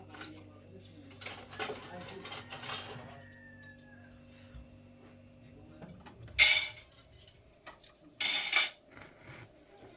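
Dishes and cutlery clinking and clattering, then two short, louder noisy sounds, about six and eight seconds in.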